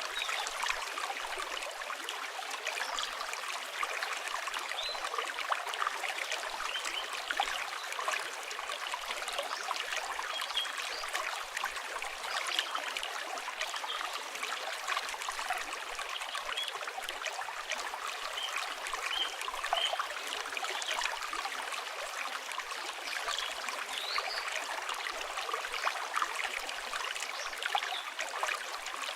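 Flowing river water with a steady rush, mixed with a crackling campfire's frequent small pops and a few brief bird chirps.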